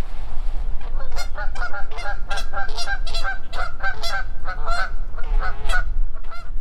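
A goose honking over and over in quick harsh calls, about three a second, starting about a second in, with one longer drawn-out honk near the end: an agitated, defensive goose. A steady rumble of wind on the microphone runs underneath.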